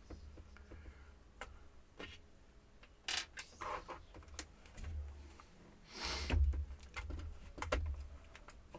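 Scattered light clicks and knocks from a laptop's plastic case and small parts being handled on a bench. A longer scraping rustle comes about six seconds in, over a faint steady hum.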